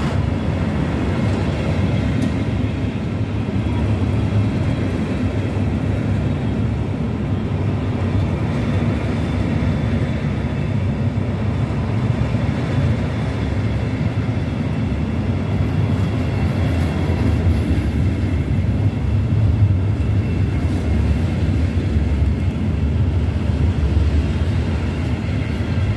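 Slow freight train of loaded log wagons rolling past: a steady low rumble of wheels on rail, with a faint high-pitched wheel tone over it.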